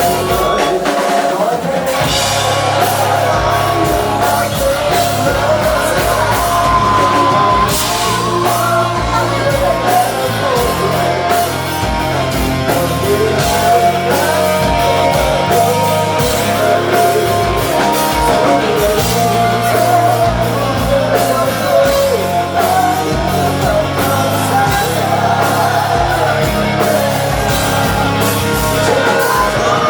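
Live rock band playing at full volume: drum kit and guitars over a steady bass line, with vocals in the mix.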